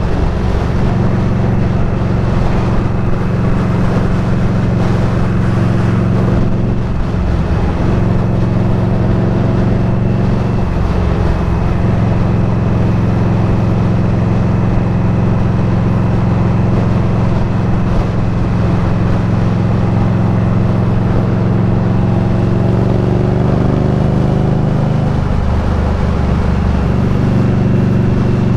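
Indian Scout Bobber's V-twin engine running steadily while riding, its note dipping briefly a few times over a steady rush of noise.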